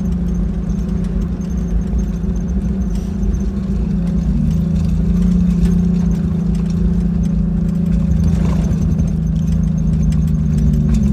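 Jeep Wrangler YJ engine running steadily while driving, with wind buffeting the microphone; the engine gets a little louder about four seconds in.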